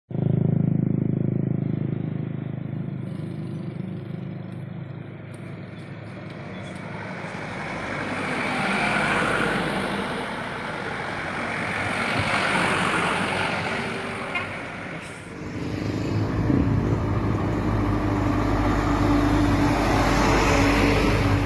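Heavy trucks running and moving past, their engines making a steady low drone. The noise swells and fades through the middle, then a deeper, louder rumble with a steady tone sets in about fifteen seconds in.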